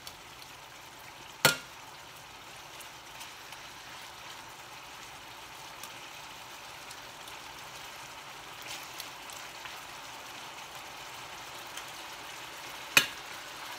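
Beef frying in oil in a stainless-steel skillet: a steady sizzle that grows slightly louder, with two sharp clinks of the tongs against the pan, about a second and a half in and near the end.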